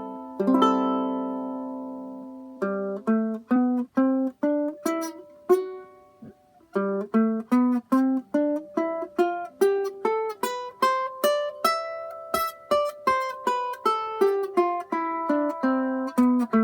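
Tenor ukulele with a spotted maple body being played. A strummed chord about half a second in rings out for a couple of seconds, then single notes are picked in a quick melody of about three or four notes a second, with a short pause in the middle. A thick, heavy sound.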